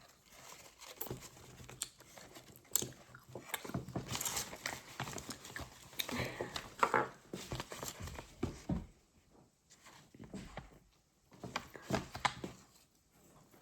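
Irregular rustling, crinkling and small clicks from toys and packaging being handled, with brief quiet gaps.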